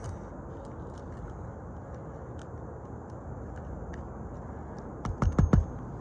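Steady outdoor background hiss, then a quick run of about five sharp knocks a little before the end, likely from hand work on the asphalt shingle roof being repaired.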